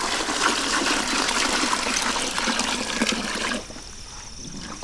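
Water pouring and splashing in a steady rush that cuts off about three and a half seconds in, leaving crickets chirping.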